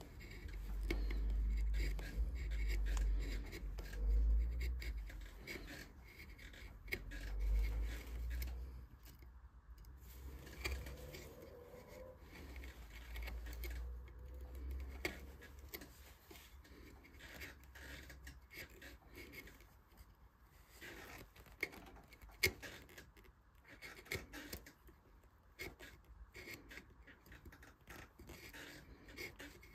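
Hand carving tools cutting and scraping wood in short, irregular strokes, with scattered clicks. A low rumble from handling the workpiece runs through the first half.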